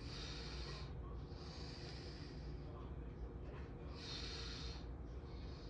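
A person breathing close to the microphone: hissy breaths, in and out, about every second and a half, over a faint steady low rumble.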